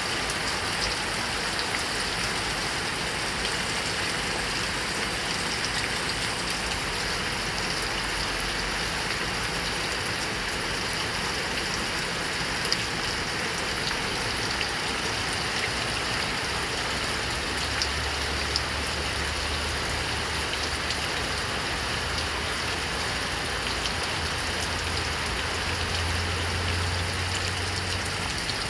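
Heavy rain falling steadily, with scattered sharper drop hits and a low rumble that comes in a little past halfway.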